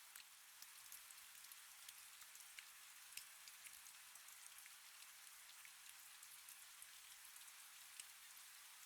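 Quiet, steady rain: a soft even hiss with many small drop ticks scattered through it.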